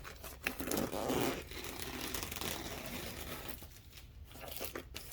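Packaging of a fireworks novelty assortment being ripped open by hand: tearing and crinkling, easing off briefly near the end.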